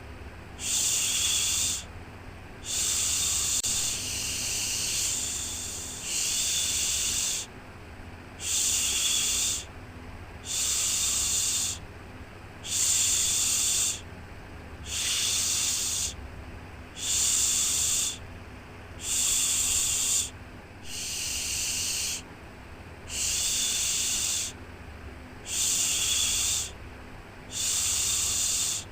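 Shushing 'shhh' sounds repeated steadily, about one every two seconds, each lasting a second or so, over a faint low hum: a soothing shush for lulling a baby to sleep.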